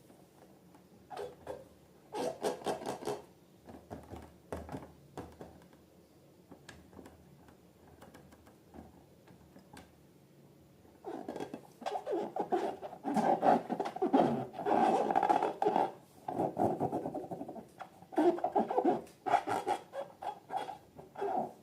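Slime being squeezed and worked by hand, with sticky wet clicks and squelches in irregular bursts. They come sparsely at first and grow busier and louder about halfway through.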